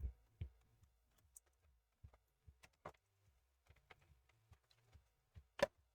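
Faint scattered clicks and taps of a laptop's plastic casing being handled and pried at while it is being removed, with a sharper click near the end.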